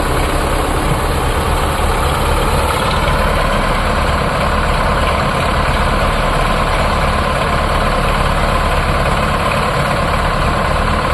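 Sonalika tractor's diesel engine running steadily at a constant speed, a low, even rumble.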